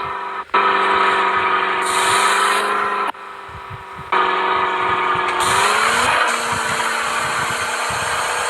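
Mahindra Thar's engine running at a steady pitch while driving off-road. The sound drops out abruptly about half a second in and again for about a second near the three-second mark, and the pitch rises briefly about six seconds in.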